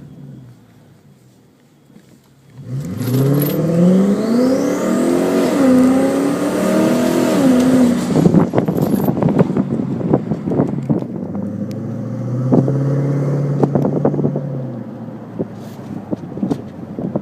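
Twin-turbo Lexus engine starting about two and a half seconds in and revving up and down, followed by a run of sharp crackling clicks and then a steadier held note.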